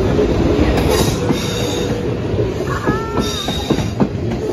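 South Western Railway electric passenger train passing close by over the level crossing: steady, loud running noise, with wheels clicking over rail joints in a run of clicks in the second half.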